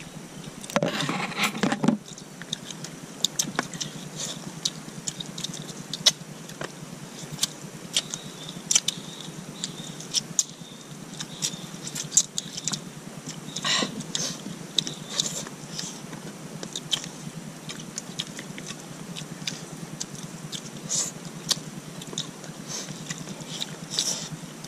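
Close-up eating sounds: people chewing and smacking their lips as they eat by hand, with many small irregular clicks and crackles.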